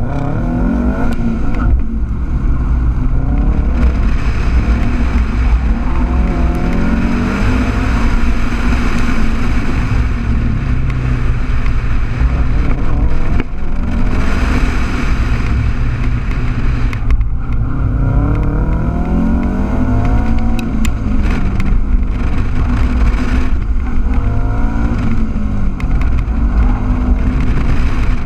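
Car engine driven hard, revving up and falling back again and again as the car accelerates and slows between cones, over heavy wind rumble on an outside-mounted microphone.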